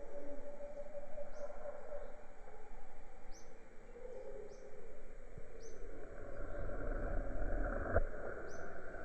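Jungle ambience: a bird gives short high chirps about once a second over a steady hiss and drone. A low rumble comes up in the second half.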